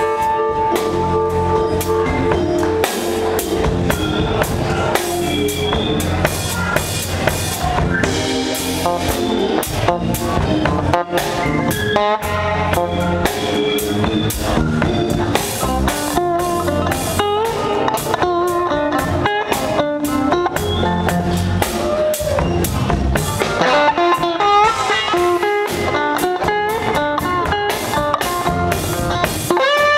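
Live rock band jamming: an electric guitar plays bending lead lines over drum kit and bass.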